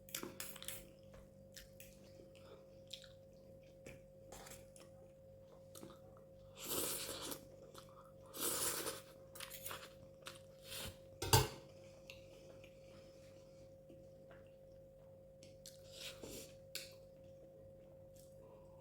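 Close-miked eating: chewing with scattered small clicks of cutlery on a plate, two longer noisy bursts a few seconds apart, and one sharp clink of a utensil against the dish about eleven seconds in.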